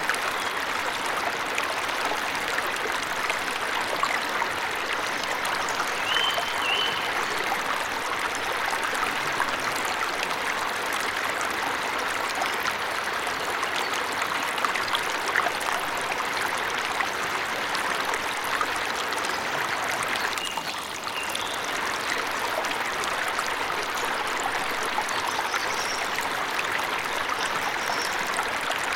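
Waterfall splashing steadily in a forest, with a few brief bird chirps above the rush of water.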